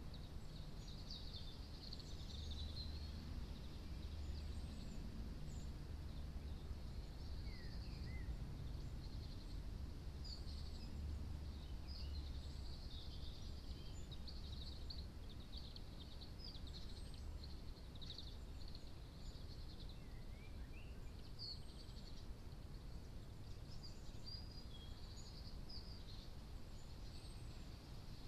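Small birds chirping and twittering, many short high notes with a few whistled glides, over a steady low rumble.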